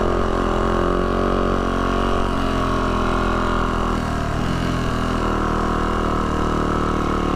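Yamaha YZ450F dirt bike's single-cylinder four-stroke engine running at a steady, low throttle while riding, its note dipping briefly about four seconds in.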